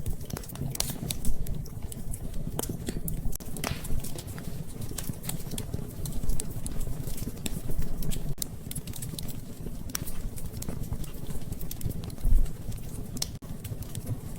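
Wood fire crackling and popping in a fireplace: irregular sharp snaps over a steady low rumble of the flames.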